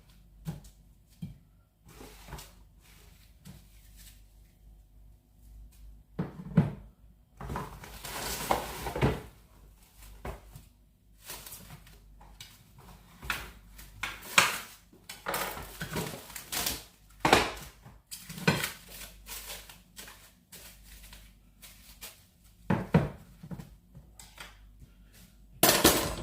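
Kitchen clatter: dishes, pots and cutlery handled on a counter, with irregular knocks, clinks and scraping.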